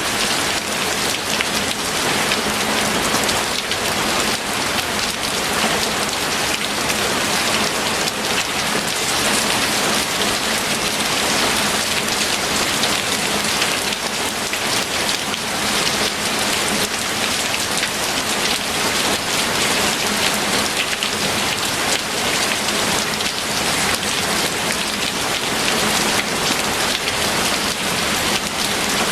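Steady, heavy rain falling, a dense even patter of drops hitting a surface.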